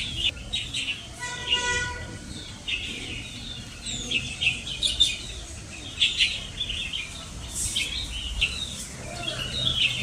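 Several songbirds chirping and calling one after another in short, sharp notes, over a low background rumble.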